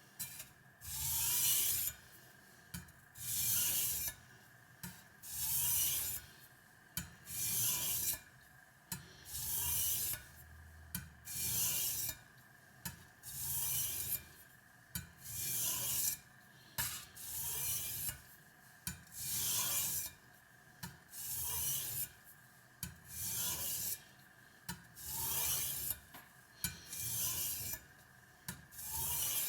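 Stainless kitchen cleaver blade stroked across a wet Spyderco medium-grit aluminium oxide bench stone while the edge is sharpened: a rasping hiss on each pass, roughly one pass a second, with a short click between many of the strokes.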